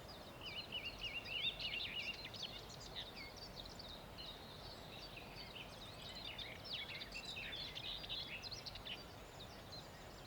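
Faint songbird dawn chorus: several birds chirping and warbling in short overlapping phrases over a steady low hiss.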